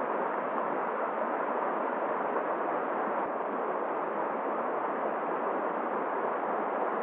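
Steady rushing noise of a flowing river mixed with winter wind, even and unbroken.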